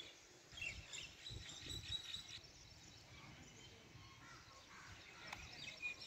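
Faint outdoor ambience with birds chirping: a cluster of short, high chirps in the first couple of seconds and a few more near the end.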